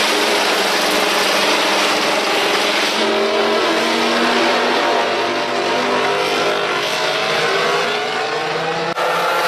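MotoGP racing motorcycles' four-cylinder 1000 cc engines running at high revs on track. The sound changes abruptly twice, about three seconds in and near the end.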